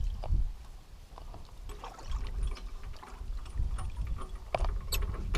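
Water sloshing and trickling around a boat and trailer at a launching ramp, with scattered short knocks and clicks and an uneven low rumble.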